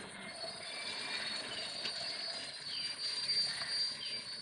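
A slow freight train of tank wagons rolling away along the track, its wheels giving a thin, steady high squeal. Birds call over it in short falling chirps, a few times.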